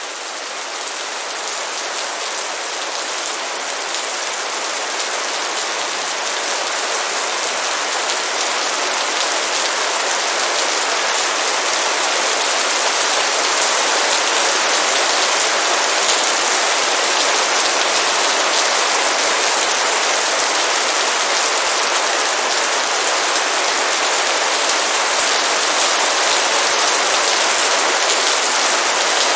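Heavy downpour of rain: a dense, steady hiss of falling drops that swells gradually over the first dozen seconds, then holds level.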